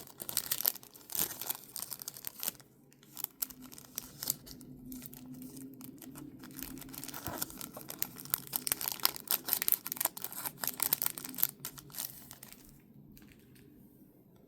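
Packaging crinkling and rustling as a collectible card box is handled and unpacked, a run of quick irregular crackles that dies away about twelve seconds in.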